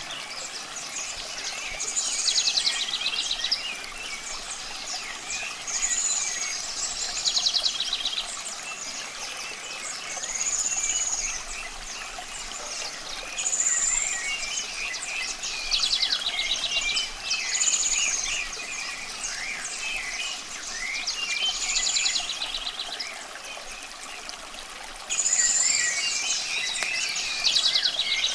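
Birds singing over steadily running water: one bird repeats a short high phrase, a clear arching note followed by a fast trill, every few seconds, among other scattered chirps. The song grows louder near the end.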